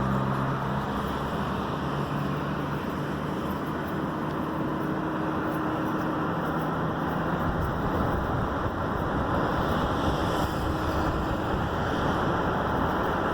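Steady road and tyre noise inside the cabin of a 2011 Ford Edge being driven, with a faint hum that comes and goes.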